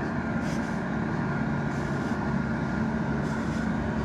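Fire truck engine running at a steady pitch, a constant drone with a steady hum.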